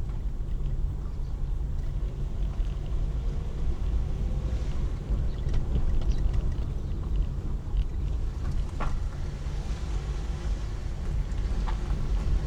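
Steady low rumble of a car on the move, heard from inside the cabin, with a few faint clicks and knocks.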